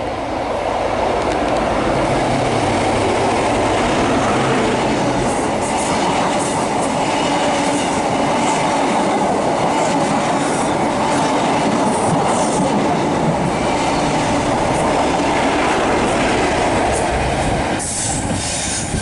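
InterCity 125 High Speed Train passing slowly through a station: a class 43 diesel power car running, then the coaches' wheels clattering and squealing on the rails. The sound swells in over the first second and holds loud and steady until it eases near the end.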